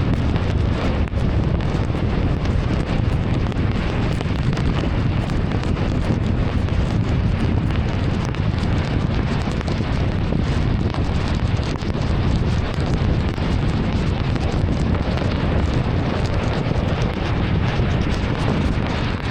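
Heavy rain on a car driving along a wet road: a steady, dense rushing noise of rain and tyre spray that keeps up without a break.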